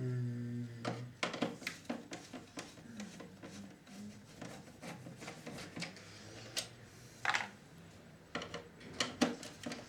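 Parts of a VCR being handled during disassembly: a run of irregular light clicks, knocks and scrapes of plastic and metal. It opens with a brief low hum lasting under a second.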